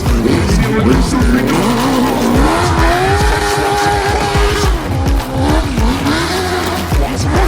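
Motocross/enduro motorcycle engine revving up and down, held at high revs for a couple of seconds midway, under background music with a steady beat.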